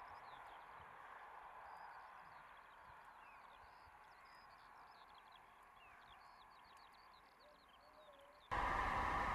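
Faint songs of small birds, many quick high chirps repeating one after another over a quiet outdoor hush. Near the end a much louder steady rushing noise cuts in abruptly.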